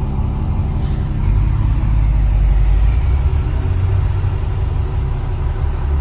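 Ford Cargo truck's diesel engine running, a steady low rumble heard inside the cab, swelling a little for a couple of seconds. A single brief click sounds about a second in.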